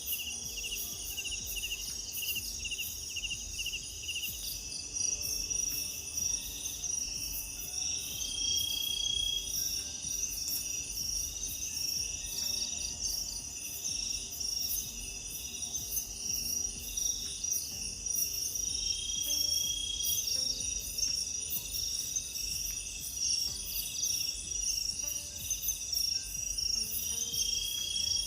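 Night chorus of crickets and other forest insects: a steady, pulsing high-pitched trilling that never stops, with a brief higher whistled trill rising out of it about every ten seconds.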